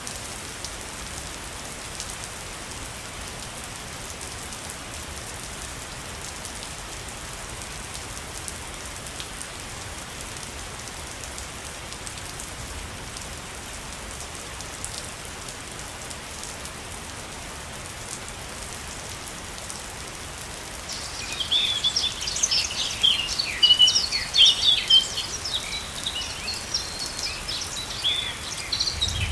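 Steady rushing of falling water. About two-thirds of the way in, birds start chirping, many quick high calls that stand out louder than the water.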